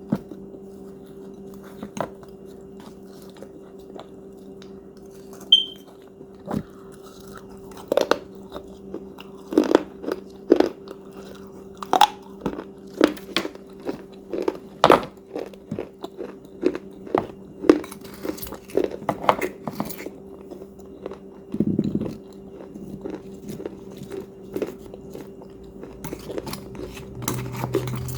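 A person biting into and chewing a hard, crunchy cookie: irregular sharp crunches, thickest in the middle stretch, over a steady low hum.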